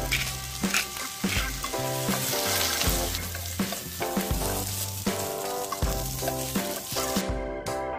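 Potato and carrot matchsticks sizzling as they stir-fry in a nonstick pan, turned with a spatula. The sizzle cuts off about seven seconds in. Background music with a beat plays throughout.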